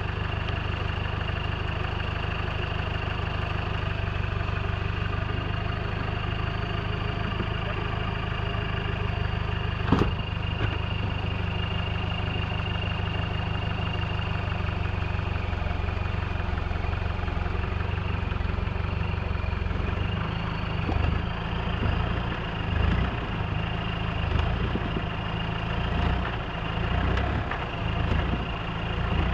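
Off-road 4x4's engine idling steadily, with one sharp knock about ten seconds in. From about twenty seconds in the engine surges and drops again and again as the vehicle crawls over rocks.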